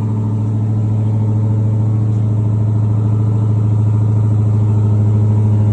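Car engine with a muffler delete idling steadily through its open exhaust on a cold start.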